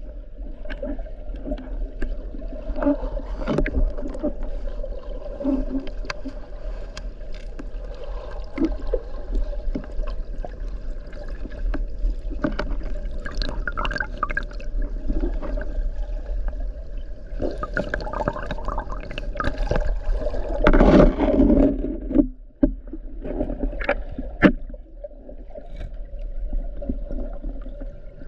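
Water sloshing and gurgling, with many short irregular knocks and splashes throughout.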